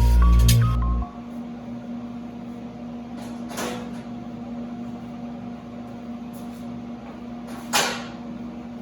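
Background music cuts off about a second in, leaving a steady low hum with two short hissing bursts about four seconds apart.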